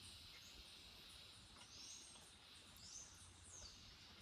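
Faint birdsong: several short, high, arching chirps repeat every second or two over a quiet outdoor background.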